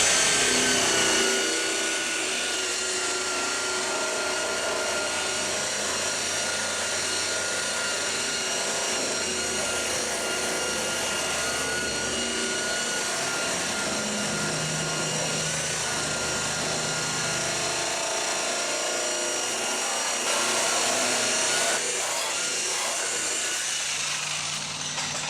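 Handheld electric buffer (paint polisher) running steadily, its motor whine holding one pitch, a little louder for a moment about 20 seconds in and dying away near the end.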